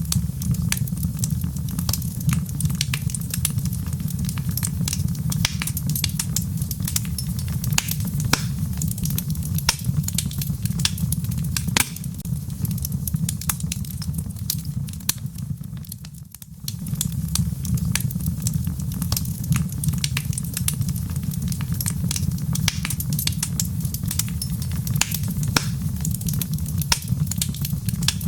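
Wood fire crackling, with many sharp pops over a steady low rumble and a soft patter of rain behind it. The sound briefly drops away about sixteen seconds in and then resumes.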